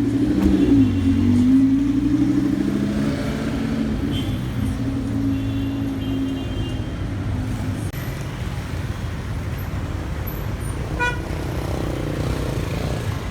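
A car engine running at low revs, its pitch rising and dipping briefly about a second in and then settling, over street traffic. Brief vehicle horn toots sound in the middle and once more toward the end.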